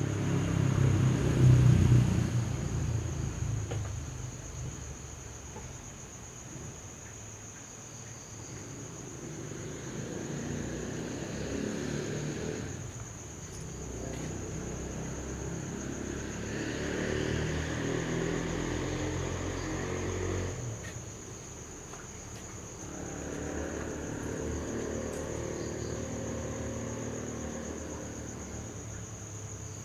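Steady high-pitched insect chirring, with a low rumble swelling up and fading four times, the first one the loudest.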